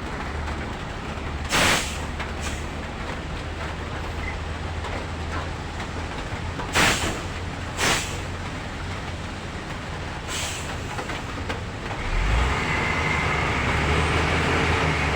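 Dump truck's diesel engine running steadily, with four short, sharp air-brake hisses. About 12 seconds in the engine gets louder and a faint whine comes in.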